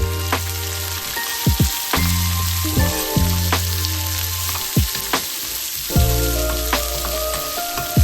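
Oil sizzling in a pan, a steady hiss with sharp pops, under instrumental background music of held notes over a low drone.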